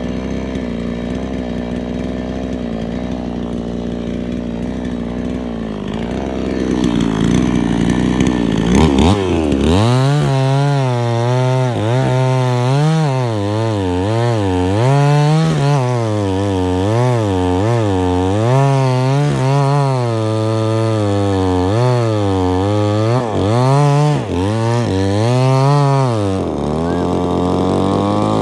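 Chainsaw engine running at a steady low speed, then revving up about a third of the way in. From there its pitch rises and falls over and over, about every second or two, as it works through wood.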